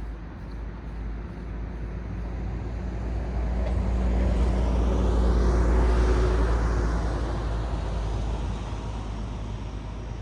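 A car passing by on a road: tyre and engine noise swell to a peak about halfway and then fade away, over a steady low traffic rumble.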